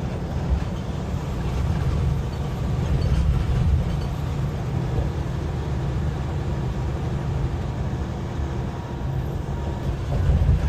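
Steady low rumble of a semi truck heard from inside its cab: engine and road noise.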